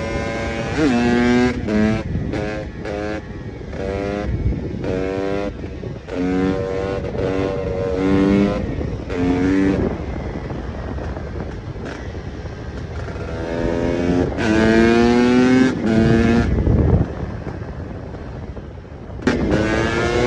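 KTM EXC 300 two-stroke single-cylinder enduro engine under way, revving up in short bursts one after another, each rising in pitch and then cutting back. It settles into a quieter stretch midway, then rises in one long rev, drops away, and picks up again just before the end.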